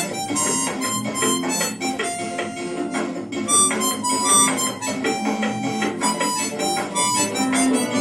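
Music led by a harmonica playing a run of short notes.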